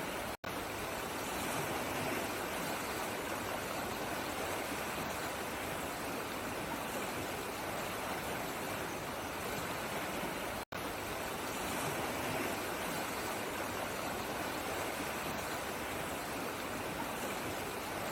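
Running water of a stream, a steady even rush, cut by a split-second dropout to silence just after the start and again about ten seconds in.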